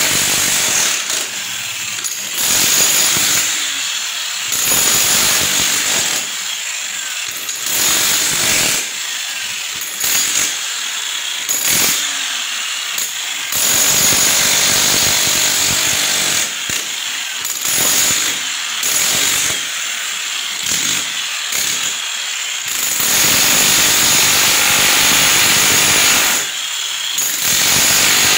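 Handheld power tool run in repeated bursts of one to three seconds with short pauses, and two longer runs partway through and near the end.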